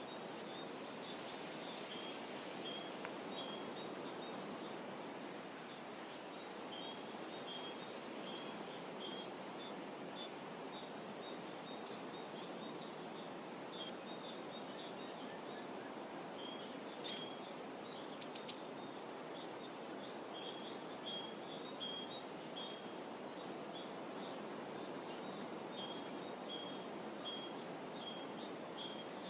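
Small birds chirping over and over in short, high, thin notes, over a steady soft rush from calm rippling water. A few sharp clicks come around the middle.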